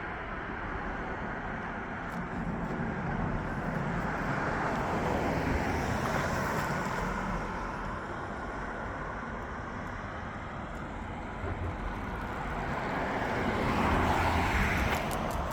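Road traffic noise: motor vehicles passing on the road, the rushing noise swelling and fading twice.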